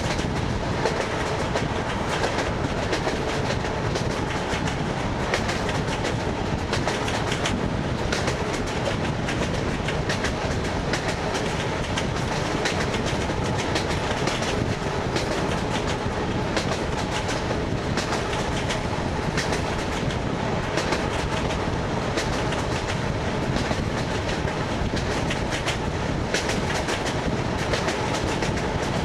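An ED9M electric multiple unit running along jointed track: the wheels clickety-clack over the rail joints over a steady rumble of the moving carriage.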